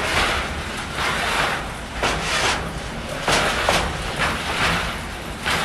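Train 15D-114 rolling through the station over a low rumble, with a clatter from the track recurring about once a second.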